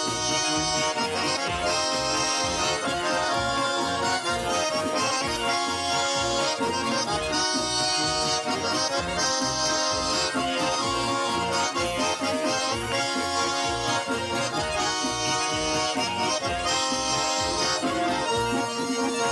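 Accordion-led instrumental ending of a Russian folk-style song, with sustained chords and a steady rhythmic bass beat, following the last sung line.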